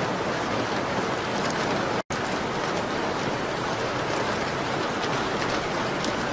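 Steady rain on a window: an even hiss with faint scattered ticks. About two seconds in it cuts out to silence for a split second, then resumes.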